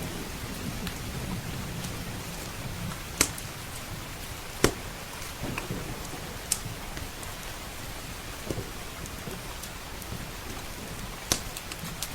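Steady rain, a low rumble in the first few seconds, and a wood fire in a stone fireplace giving four or five sharp pops.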